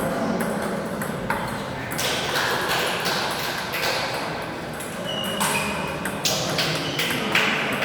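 Celluloid-type table tennis ball being struck by rackets and bouncing on the table: a string of sharp, irregularly spaced clicks over the murmur of the hall.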